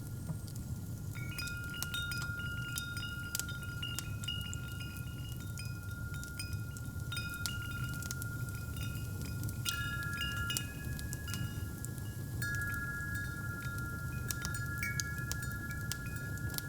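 Wind chimes tinkling, with scattered light strikes and held ringing tones, over the steady low rumble of a fireplace.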